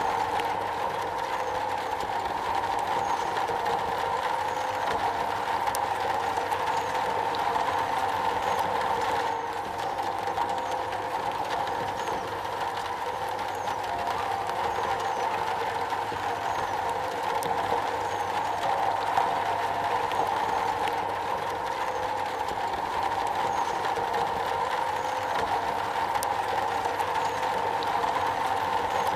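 Steady rain falling on a metal roof, a dense, even patter.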